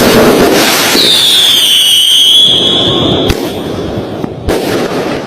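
Fireworks going off in a dense run of crackling and bangs, with a loud high whistle that starts about a second in, dips slightly in pitch and holds for about two seconds before cutting off; sharp single bangs follow as the barrage thins out.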